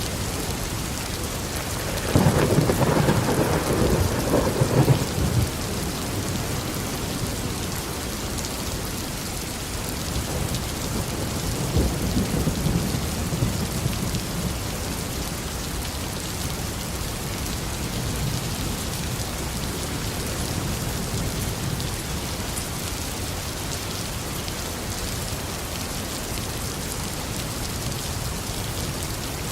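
Steady heavy tropical rain hissing on a garden, with a loud rumble of thunder about two seconds in that lasts some four seconds, and a second, fainter rumble around the middle.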